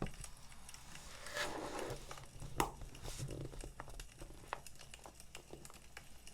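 Paper or plastic packaging crinkling and rustling as it is handled, in two short spells, over a crackling wood fire with small pops scattered throughout and one sharper pop about two and a half seconds in.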